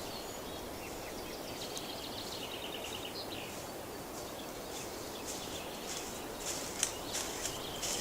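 Forest ambience: a steady outdoor hiss with a small bird giving a short trill of quick repeated chirps about two seconds in, and a few soft rustles later on.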